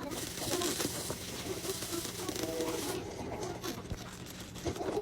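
Home kitchen during dinner cooking: a steady hiss for about the first three seconds, over faint background voices and a low hum.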